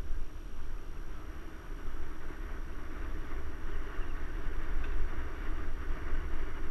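Mountain bike riding noise: steady wind rumble on the camera's microphone over the hiss of tyres rolling on a trail.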